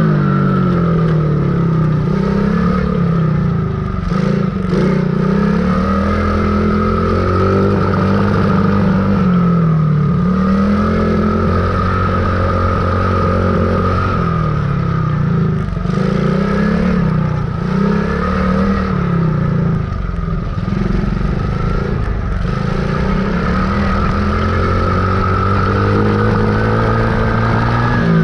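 Dirt bike engine running while riding, its pitch rising and falling over and over as the throttle opens and eases off.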